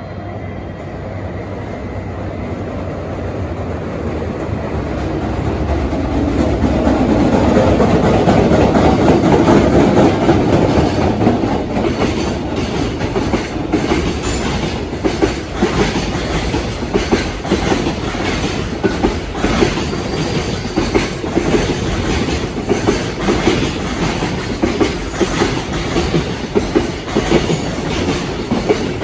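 A freight train approaching and passing close by. Its wheels clatter over the rail joints in a long, even run of clicks.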